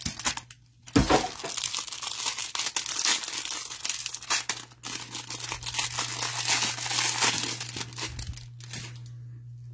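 Wrapping of a trading-card hanger box being torn open and crinkled by hand, a run of crackling that starts sharply about a second in and stops near the end.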